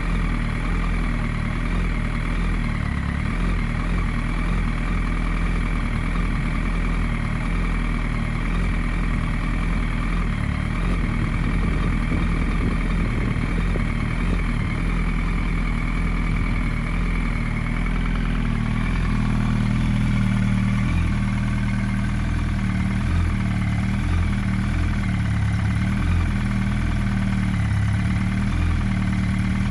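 Yamaha R1's inline-four engine idling steadily through an aftermarket Scorpion exhaust canister. Its note shifts slightly and grows a little louder about two-thirds of the way through.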